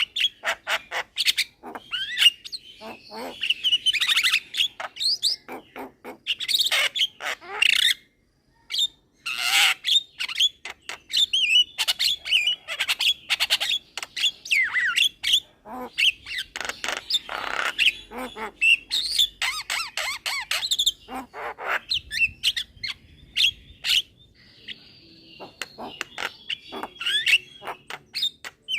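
Young Javan myna singing without pause: fast clicking chatter mixed with harsh squawks and whistled, sliding notes, broken by a brief silence about eight seconds in.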